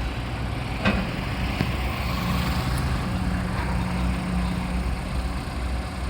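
Excavator's diesel engine running steadily, with a sharp knock about a second in and a fainter one shortly after.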